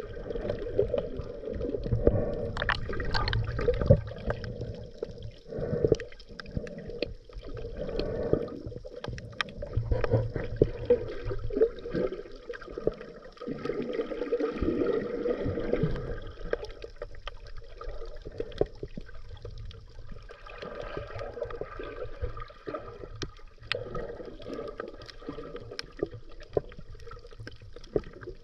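Underwater gurgle of a scuba diver's exhaled regulator bubbles, heard through a camera housing. It comes in spells every few seconds with many small clicks and pops, and eases off for several seconds past the middle.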